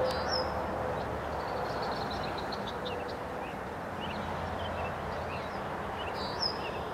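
Outdoor background: a steady low rumble and hiss, with small birds chirping now and then, most clearly near the start and about six seconds in.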